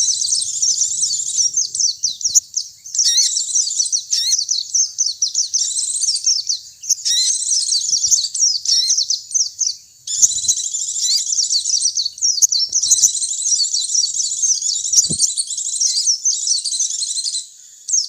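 White-eyes (pleci) singing a fast, continuous high twittering song, with brief breaks about two seconds in and about ten seconds in.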